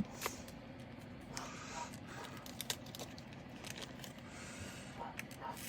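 Faint, scattered clicks and short rustles of small plastic bags of diamond-painting drills being handled and sorted.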